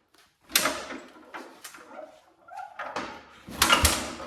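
Tractor's Hercules IXA four-cylinder engine being turned over in short bursts without catching. It is not firing, with no fuel reaching it.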